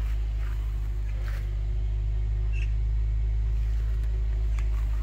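1994 Toyota Carina's engine idling steadily, a low, even rumble, with a few faint clicks. It runs smoothly after ten years of standing outdoors.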